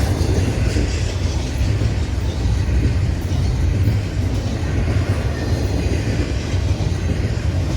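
Norfolk Southern intermodal freight cars, carrying containers and trailers, rolling past at speed. The steel wheels on the rails make a steady, loud, low rumble.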